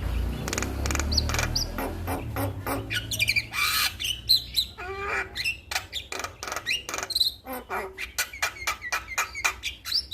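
Male Javan myna (jalak kebo) singing a busy, varied run of whistles, harsh squawks and rapid clicking notes. A low rumble lies under the first two seconds.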